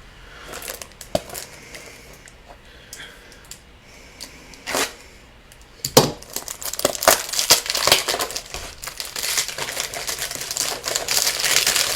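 A new box of cigarette tubes being opened: packaging crinkling and tearing. There are scattered clicks and rustles at first; about halfway in it turns into steady crinkling that continues.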